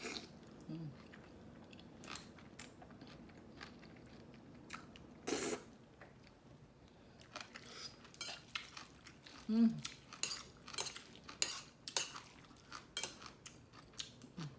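Utensils clicking and tapping against dishes, many short sharp clicks that come thicker in the second half, with chewing in between.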